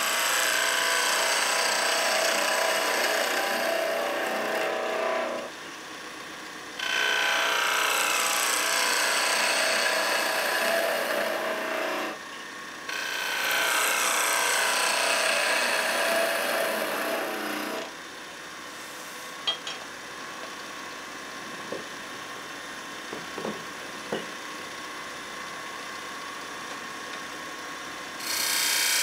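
A turning tool cutting spinning pine on a wood lathe, a hissing scrape in three long passes with short breaks between them. After that, about ten seconds of quieter running with a few small knocks.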